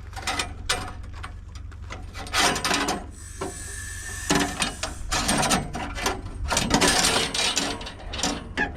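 Irregular scraping, rubbing and knocking of metal parts as the blade tensioner on a band sawmill is worked to slacken the blade.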